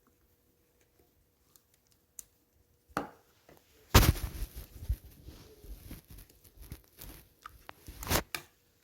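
Rustling and tearing-like handling noises, starting about four seconds in after near silence, with a sharp louder crackle near the end.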